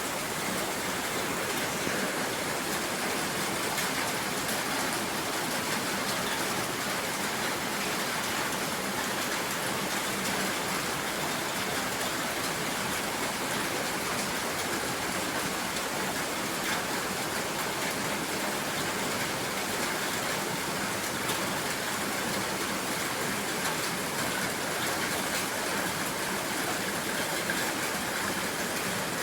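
Heavy rain falling steadily on a shed: a dense, even hiss of drops that does not let up.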